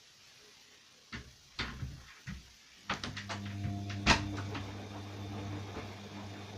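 Bosch washing machine: a series of sharp clicks and knocks, with the loudest knock about four seconds in, and a steady low hum that starts about three seconds in and keeps going.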